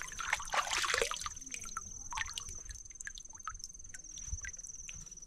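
Water dripping and splashing with small clicks and knocks as a toy is washed, busiest in the first second and thinning out after. A steady high-pitched whine runs underneath.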